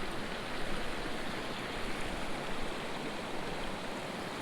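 Creek water flowing steadily, an even rushing noise.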